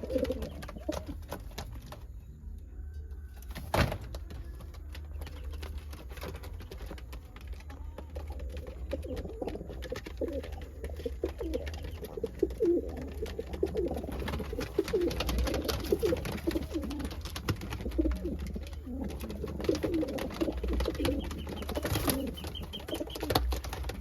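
Domestic pigeons cooing over and over, several birds overlapping, the calls growing busier in the second half, over a steady low rumble. A sharp knock sounds about four seconds in and another near the end.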